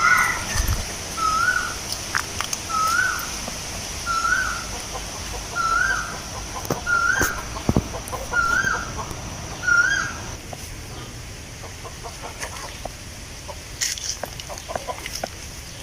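A bird repeating one short, rising whistled note about every second and a half, some eight times, then falling silent about ten seconds in. A steady high-pitched drone runs underneath.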